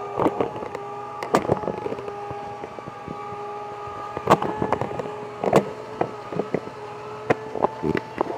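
Small electric motor of a radio-controlled truck whining at a steady pitch that shifts slightly about four seconds in and again near the end, with scattered sharp clicks and knocks over it.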